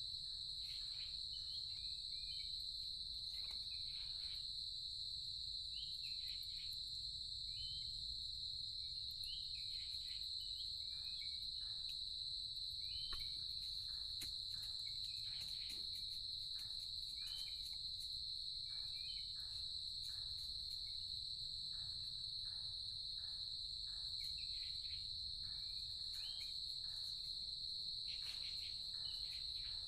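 Forest insect chorus: one steady, unbroken high-pitched drone, with many short chirps and clicks scattered over it.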